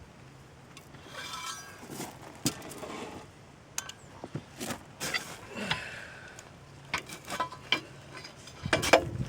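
Scattered knocks, clinks and scraping of metal and wood being handled as a block is wedged under an excavator attachment to hold it up, with the loudest knock near the end.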